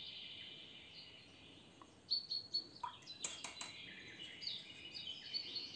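Faint birds chirping and twittering in the background, with a few light clicks about three seconds in.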